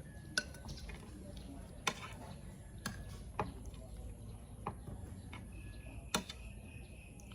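Irregular sharp clicks and taps of eating with utensils and dishes, about six in all, over a steady low hum.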